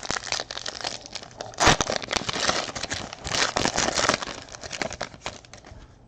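Foil trading-card pack wrapper crinkling and being torn open, a dense run of crackles with the loudest rip about two seconds in.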